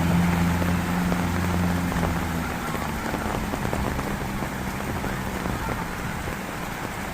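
Heavy rain pouring steadily. A low engine hum from a passing vehicle fades out over the first few seconds.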